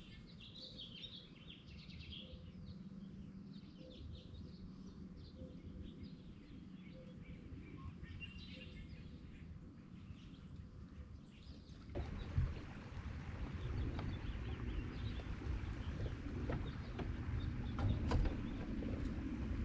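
Birds chirping over a low rumble. About twelve seconds in, a louder, even rushing noise starts, with a few sharp knocks in it.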